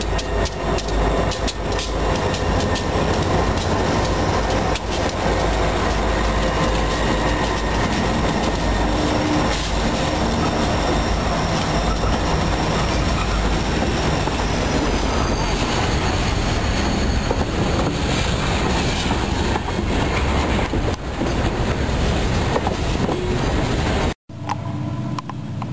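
Railroad cars rolling past, wheels clicking over rail joints, with a faint high wheel squeal. The sound cuts off abruptly about a second and a half before the end, and a quieter, different sound follows.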